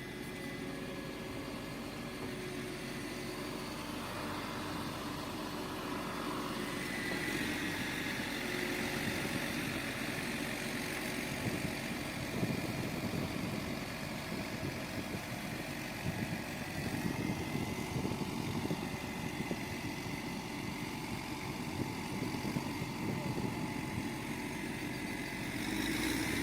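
Engine of heavy construction machinery running steadily, with a constant whine, growing rougher and a little louder about halfway through.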